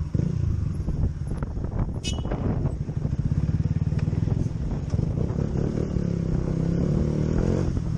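Motorcycle engine running, with the revs rising in the last couple of seconds.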